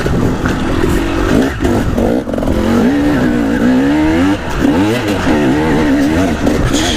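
KTM 300 two-stroke dirt bike engine revving hard under riding load, its pitch rising and falling over and over as the throttle is opened and closed.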